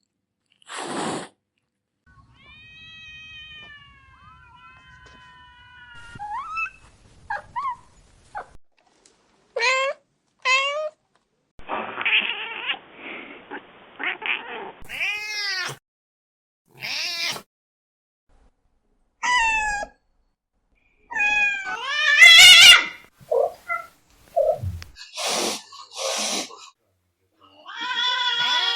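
Domestic cats meowing: a string of separate meows and drawn-out yowls of differing pitch, many sliding up and down, with short gaps between them. The loudest is a long wavering yowl about two-thirds of the way through.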